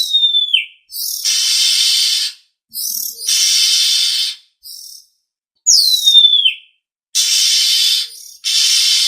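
Oriental magpie-robin (kacer) calls from a lure recording: a clear whistle sliding down in pitch, then harsh, hissy churring calls about a second long each, repeated with short gaps. A second downslurred whistle comes about six seconds in.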